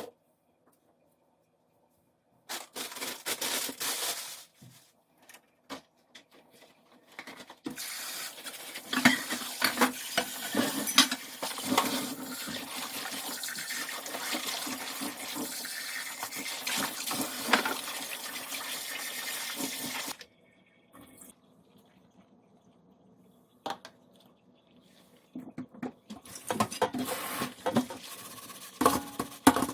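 Water running from a tap in a short burst, then steadily for about twelve seconds with knocks of things being handled under it, shut off suddenly. Near the end, dishes and utensils clatter.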